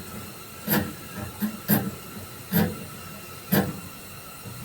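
About five short, irregular knocks and clanks of hands and tools working at the truck's bolts, over a steady background hiss.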